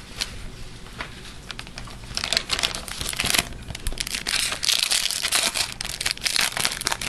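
Crinkling and crumpling of a hockey-card pack wrapper being opened: a few faint crackles, then dense, irregular crinkling from about two seconds in.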